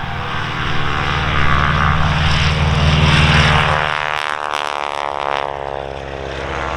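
Propeller-driven biplane flying by, its radial engine running loud and strong for the first few seconds, then easing off a little and carrying on steadily.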